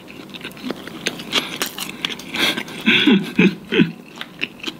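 A person chewing a mouthful of teriyaki chicken onigiri (rice ball wrapped in seaweed), close up, with many small wet mouth clicks. There are a few short hummed sounds about three seconds in.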